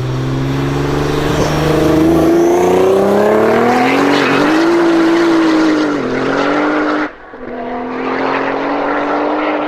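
Tuned Nissan GT-R R35's twin-turbo V6 accelerating hard, its revs climbing for about four seconds and then holding. Near seven seconds the sound cuts out sharply, as on a gear change, and the engine pulls again at a slightly lower pitch.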